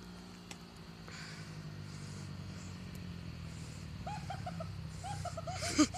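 Dirt bike engine idling with a steady low hum. In the last two seconds an animal, most like a dog, gives two quick runs of short high yelps, then one louder cry near the end.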